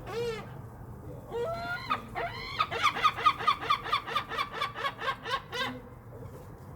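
Gull long call: a falling call and a few drawn-out notes, then a rapid run of short laughing notes, about five a second, lasting about three seconds.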